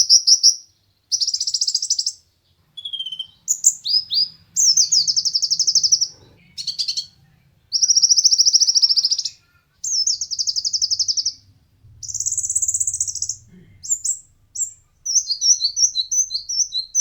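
Kolibri ninja (konin) sunbird singing: a run of fast, high, buzzy trills about a second long each, broken by short sharp chirps, with a quick choppy twittering near the end.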